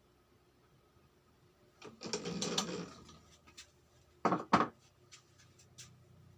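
Work on a motorcycle cylinder block on a boring setup: about two seconds in, roughly a second of mechanical running and rasping noise, then two sharp knocks a little after four seconds, with a few light ticks between.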